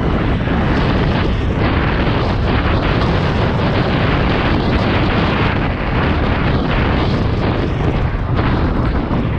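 Heavy wind buffeting on the microphone while riding a bicycle: a loud, steady rumble that never lets up.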